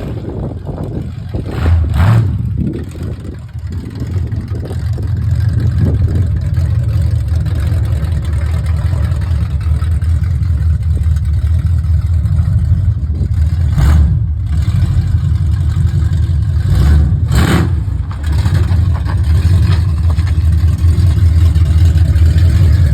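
Engine running steadily with its ignition timing freshly set and its exhaust still unfinished. A few short, sharp sounds break in about two seconds in and twice more later on.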